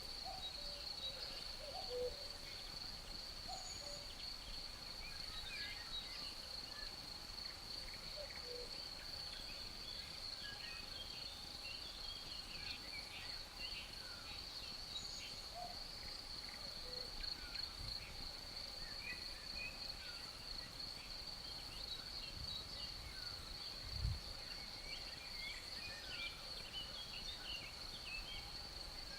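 Forest ambience: crickets keep up a continuous high-pitched trill while birds give many short scattered chirps. There is a brief low thump about 24 seconds in.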